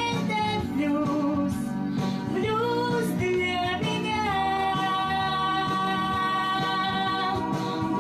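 A female voice sings a slow blues song over instrumental accompaniment, moving through several notes and then holding one long high note through the second half.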